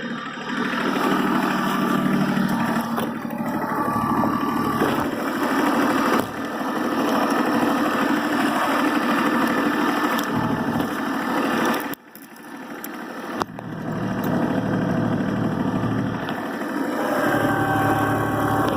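Kubota diesel tractor engine running steadily. The sound drops away sharply about twelve seconds in and builds back up within about two seconds.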